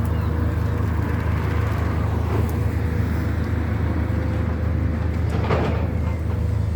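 Steady low engine rumble, with a faint steady hum above it. A short rustle or knock comes about five and a half seconds in.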